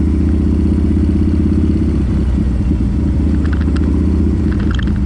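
Harley-Davidson V-twin motorcycle engine running steadily under way, its note wavering briefly about two seconds in.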